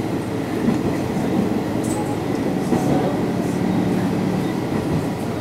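Sanriku Railway diesel railcar running along the line: a steady rumble of engine and wheels on the rails.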